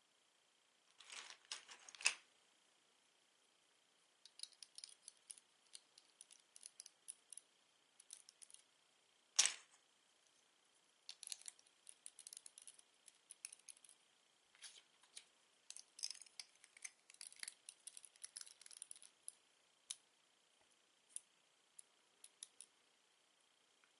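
Small plastic Lego pieces clicking and rattling as they are handled and fitted together, in irregular clusters of light clicks with a couple of sharper snaps, about two seconds in and again near the ten-second mark.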